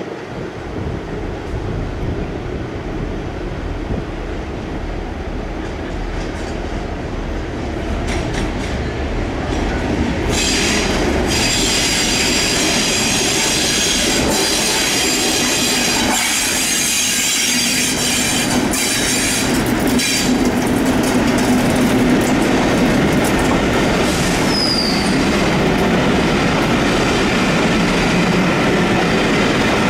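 A train running past on the rails, growing louder about ten seconds in, with a high-pitched squeal from its wheels on the rails.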